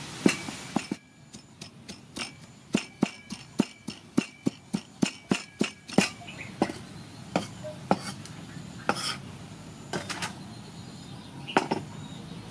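Kitchen knife chopping on a cutting board, cutting up tomato: a run of sharp knocks at about three a second, then slower, scattered chops near the end.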